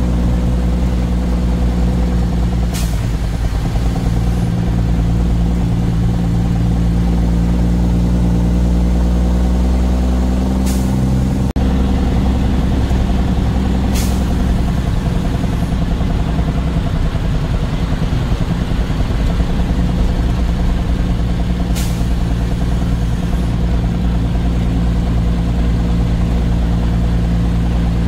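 Truck engine running steadily while driving, a low drone whose pitch shifts slightly around the middle, with four brief high hisses spread through it.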